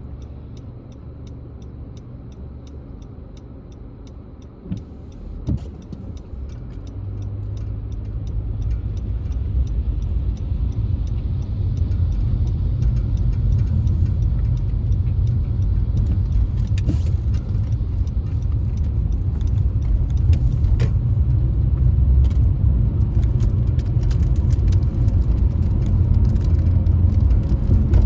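Car on the move: a low road-and-engine rumble that swells from about seven seconds in and then stays loud, with two short knocks just before it builds.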